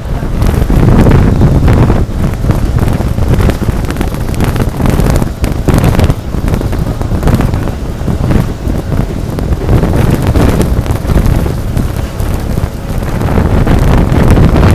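Heavy wind buffeting the microphone over the low rumble of a moving train, loud and gusty throughout.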